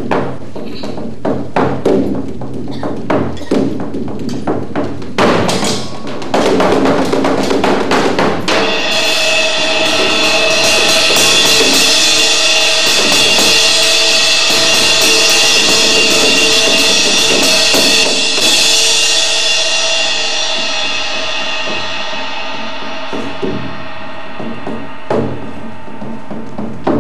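Live percussion music: sharp drum strikes, then from about eight seconds in a long sustained ringing wash that swells and slowly fades, with a few strikes returning near the end.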